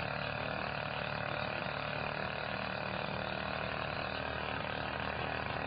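A steady low hum with an even, unchanging tone, like a motor or engine idling.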